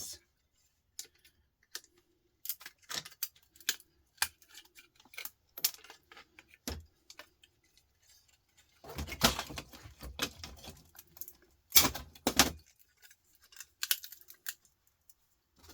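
Small metal components and hand tools clicking and clinking against each other as a computer power supply board is stripped of its parts for scrap, with two longer stretches of rattling about nine and twelve seconds in.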